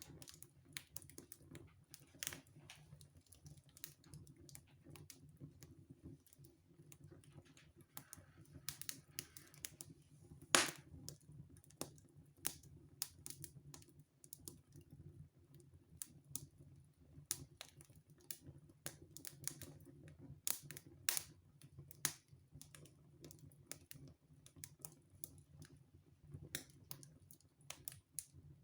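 Wood fire burning in a fireplace, crackling with irregular sharp pops and snaps, the loudest pop about ten seconds in. A low steady hum runs underneath.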